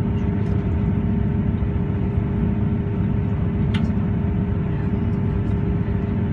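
Steady rumble and drone of a passenger train running at speed, heard from inside the carriage, with one small click about four seconds in.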